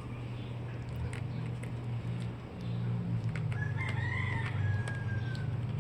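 A rooster crowing once in the background, one long call that rises and then trails off, over a steady low hum.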